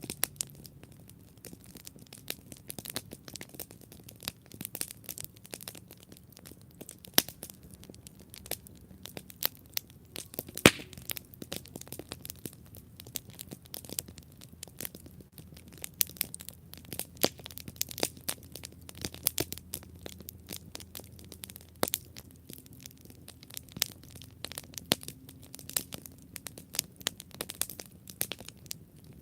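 Wood campfire burning with constant irregular crackling and sharp pops, a couple of them louder, over a low steady rumble of the flames.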